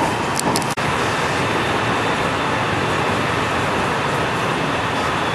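Steady running noise inside a JR West 207 series electric commuter train car on the move, with a few brief sharp clicks about half a second in.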